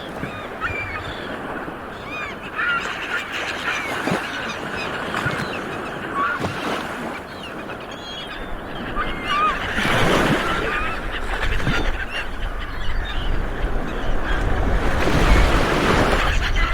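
A flock of seabirds calling, with many short, overlapping honking calls over a steady rushing background that swells several times.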